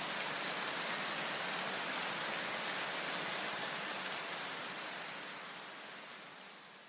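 Steady hiss of falling water, fading out over the last couple of seconds.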